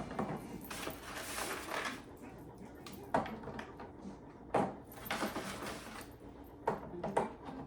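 Household items being handled in a kitchen: several separate knocks and clunks, with rustling in between, as food and containers are moved around and put away.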